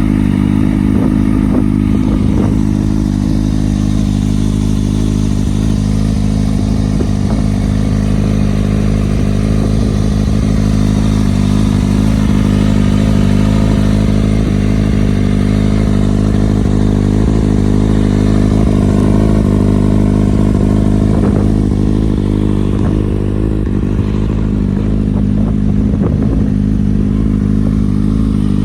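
A 2016 Kawasaki Ninja ZX-6R's inline-four engine idling at a steady, unchanging speed, with a few light clicks.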